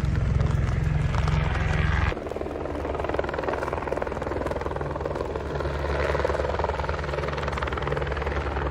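A steady low mechanical drone with a fast pulsing beat, over an even hiss of rain. The drone drops abruptly about two seconds in, then carries on quieter.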